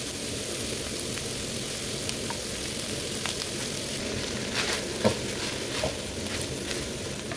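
Fried rice sizzling in a pan as cooked white rice is stirred into the vegetables and meat, with a few light utensil clicks against the pan in the second half.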